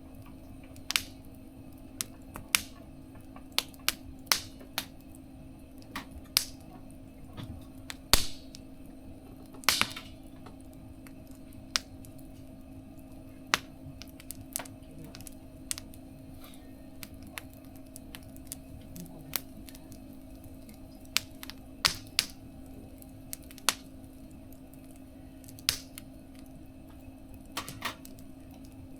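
Wood fire in a small mesh fire stove crackling, with irregular sharp pops a second or two apart over a steady low hum.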